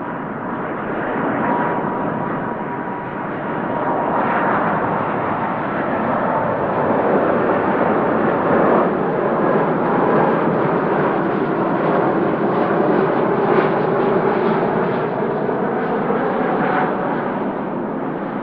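Jet airliner's engines running loud and close, a steady rush of noise with a faint whine on top, building over the first few seconds and then holding.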